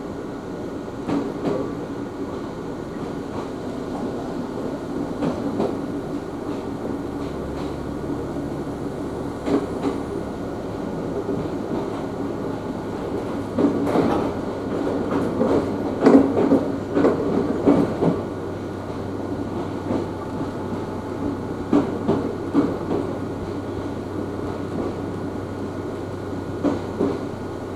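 Ohmi Railway electric train running, heard from inside the car: a steady rumble of wheels on rail, with scattered clacks from wheels crossing rail joints that come thickest about halfway through.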